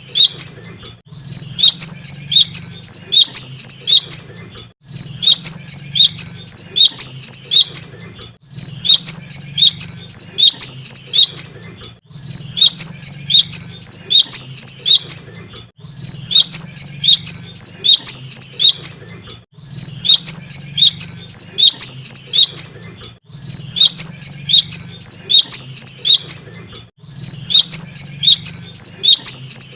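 Cinereous tit (gelatik batu) singing loudly in bursts of rapid, high chirping notes, each phrase lasting about three seconds and repeated after a short pause, about eight phrases in all.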